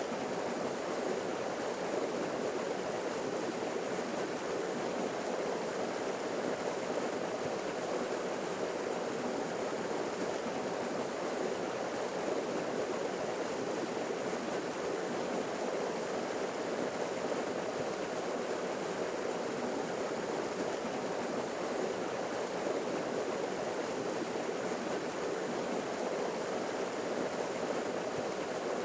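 Waterfall splashing and rushing steadily, an even water noise with no breaks or changes.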